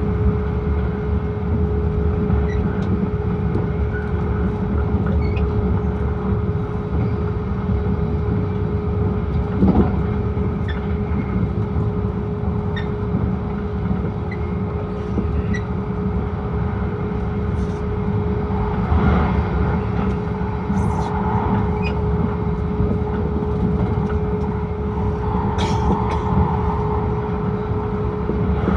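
Cabin running noise of an Akita Shinkansen E6 series train at speed: a steady low rumble with a constant hum, and occasional faint clicks and rattles.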